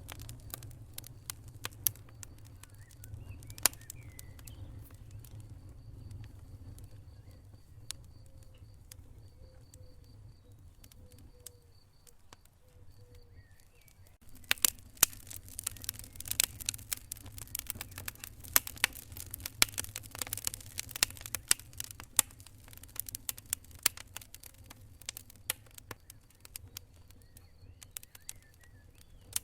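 Wood fire burning in a fireplace, with a low steady rumble and scattered sharp crackles and pops. From about halfway the pops come much thicker and louder.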